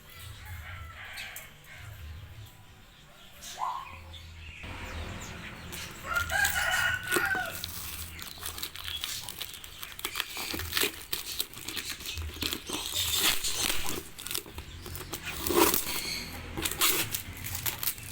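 A chicken shut in a cardboard box, scratching and fluttering against the cardboard as the box is opened, with one crowing call about six seconds in.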